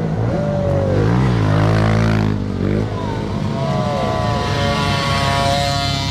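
Several motocross bikes running on a dirt track, their engines revving up and down as they accelerate and slow; one bike passes loudly about a second in, and another holds a high rev near the end.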